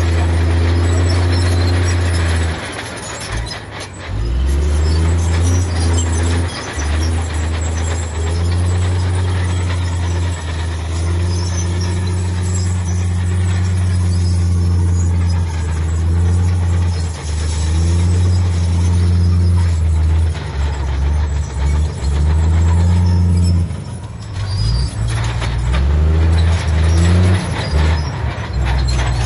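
Heavy diesel earthmoving machinery running loudly under changing load, a low steady engine drone that eases off briefly a few seconds in and again near the end.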